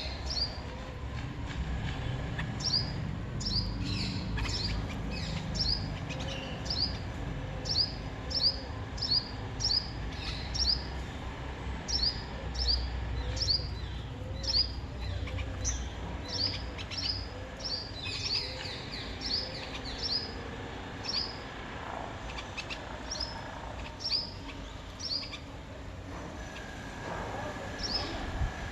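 A small bird chirping over and over, short sharp high notes roughly once or twice a second with brief pauses, thinning out near the end, over a low steady outdoor rumble.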